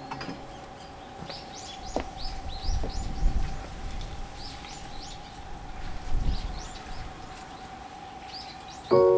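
Small birds chirping outdoors in a rapid series of short, high chirps, with a steady faint hum underneath and two brief low rumbles. A bell-like musical chime comes in loudly right at the end.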